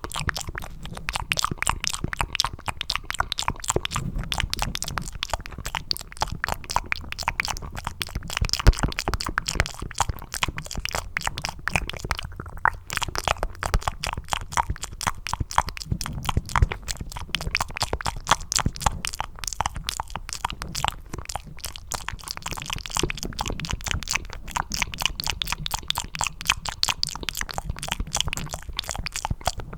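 Close-miked wet ASMR mouth sounds cupped by the hands: a steady stream of sticky, squishy clicks and smacks made to sound like mac and cheese, with a brief lull about halfway through.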